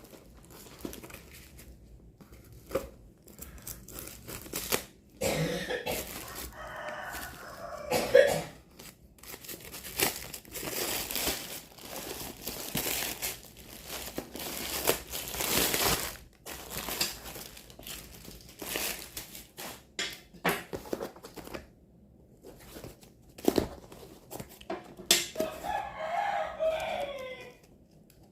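Plastic packaging crinkling and rustling in irregular bursts as a fishing reel is unwrapped. Twice, a long call in the background that sounds like a rooster crowing, once about five seconds in and again near the end.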